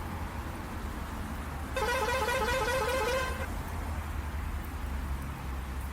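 A vehicle horn sounds once for about a second and a half, a wavering pitched blare, over the steady low drone of the Scania truck on the move.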